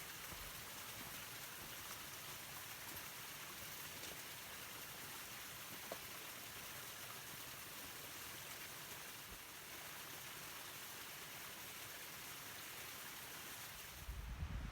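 Steady rushing of a fast-flowing river, an even hiss of water with no distinct splashes.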